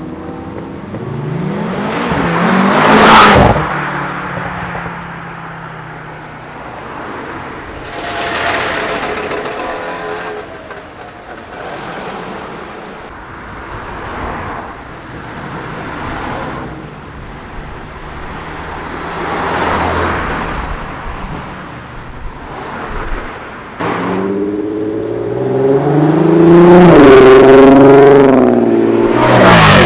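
Several cars driving past one after another, each growing louder as it passes and then fading. Near the end, the loudest car passes while accelerating, its engine note rising and falling.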